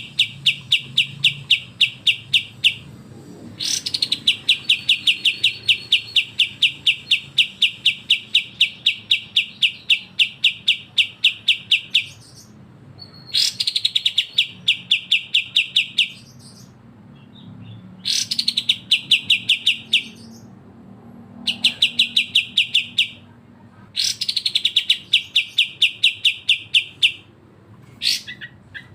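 Songbird giving its rapid rattling 'besetan' call, a fast string of sharp repeated notes several a second, in long runs broken by short pauses.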